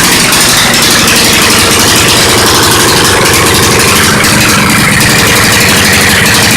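Mini bike's 178 cc Subaru single-cylinder power washer engine with a straight-pipe exhaust, running steadily with a rapid, even firing beat; the engine has its governor removed.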